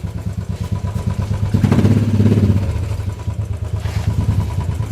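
Motorcycle engine running close by with a fast, even pulse, louder for about a second partway through.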